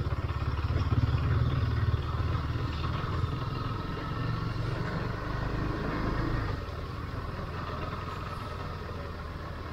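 Royal Enfield Himalayan motorcycle's single-cylinder engine running as the bike rides on a rough off-road track. It eases off and runs quieter about six and a half seconds in.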